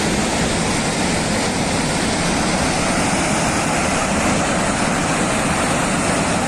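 Floodwater rushing: a loud, steady, even roar.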